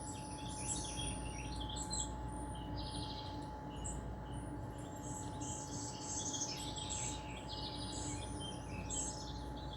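Small birds chirping and trilling in many short overlapping calls, played from a bird video through a TV's speakers, over a steady faint tone and low hum.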